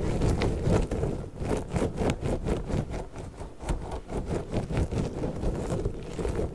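Orange squishy slug toy squeezed and handled right at the microphone in quick rhythmic squishes, several a second.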